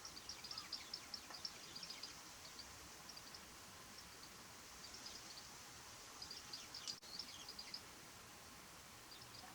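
Japanese white-eye at a mirror: fast runs of short, high-pitched ticks, about ten a second, in a burst at the start, again about two-thirds through, and a few near the end. One sharp click comes about seven seconds in, over a faint steady outdoor hiss.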